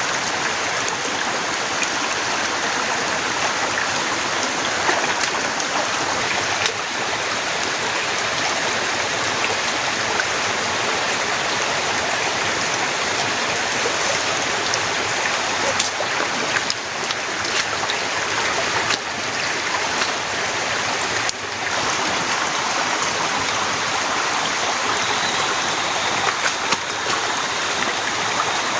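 Heavy rain pouring down in a steady, unbroken hiss, with a few faint drips and taps in it.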